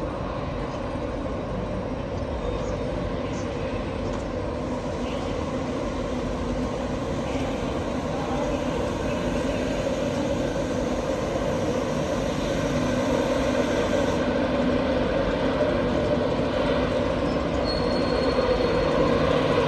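Train in a station running steadily, a mechanical drone that slowly grows louder.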